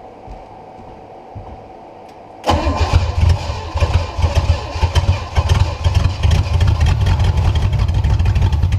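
Small-block Chevy 350 V8 boat inboard engine cranked over by its starter from about two and a half seconds in, catching and running rough on fuel poured into its carburettor. The engine has not run in decades.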